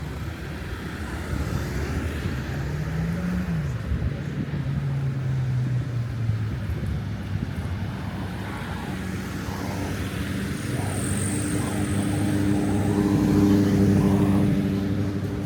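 Street traffic with motor vehicle engines running. One engine revs up and falls back about three seconds in, and another vehicle's engine grows louder and passes close near the end.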